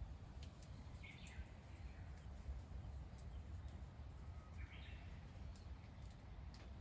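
Faint bird calls: short chirps about a second in and again near five seconds, over a steady low rumble with scattered faint clicks.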